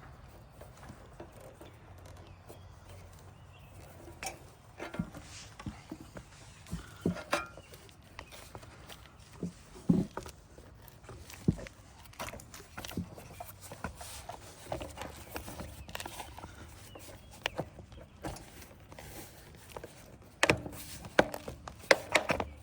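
Scattered, irregular clicks, taps and knocks of hand work, over a low steady hum. A few louder knocks come around ten seconds in, and a dense cluster of them near the end.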